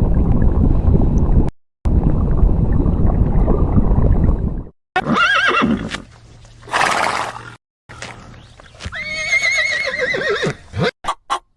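A horse neighing in a run of edited clips: two stretches of dense low noise first, then a short neigh about five seconds in, a breathy burst, and a long quavering whinny about nine seconds in. Quick short pulses begin near the end.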